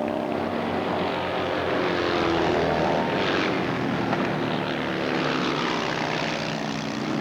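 Racing motorcycle engines going past at speed, the engine note rising and falling as the bikes pass.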